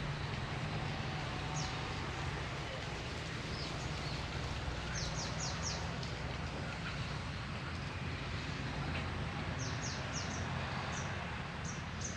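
Outdoor ambience: small birds chirping, short high notes coming singly and in quick runs of three or four, over a steady low background noise.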